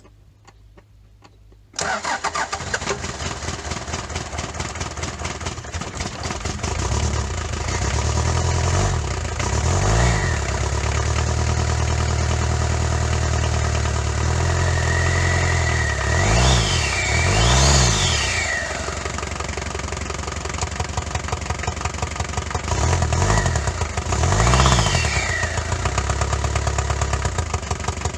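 Freshly swapped four-cylinder turbodiesel in a Daihatsu Fourtrak starting up about two seconds in, then running, with a few brief revs that rise and fall in pitch. This is the new engine's first start after being cranked on its own.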